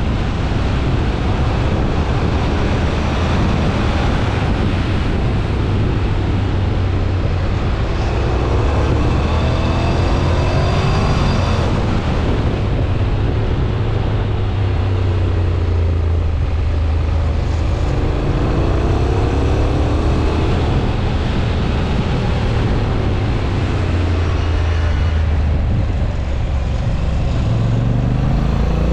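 Honda NC750X parallel-twin motorcycle engine running hard under a rush of wind noise, its pitch climbing several times as the bike accelerates.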